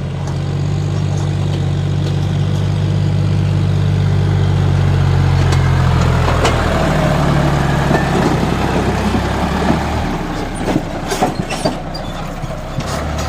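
John Deere 5050D tractor's three-cylinder diesel engine running steadily, with its pitch dropping about six seconds in. Scattered knocks and rattles come in over the second half.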